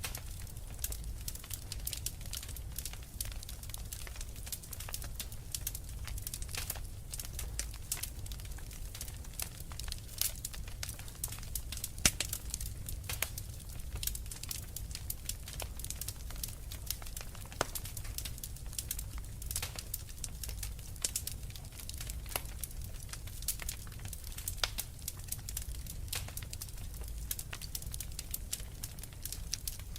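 Wood fire crackling, with many small irregular pops and one louder pop about twelve seconds in, over a steady low rumble.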